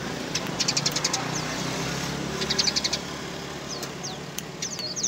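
Eurasian tree sparrow chirping actively: two quick rattling bursts of high chirps, then several short single chirps. A low engine-like hum underneath fades out partway through.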